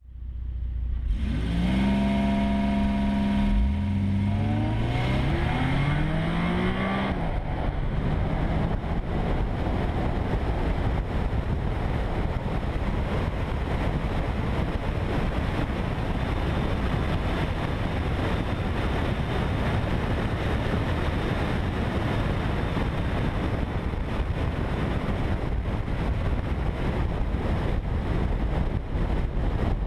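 Car engine held at steady revs, then accelerating hard with its pitch climbing for several seconds, before the engine note is swamped by a steady rush of wind and road noise at speed.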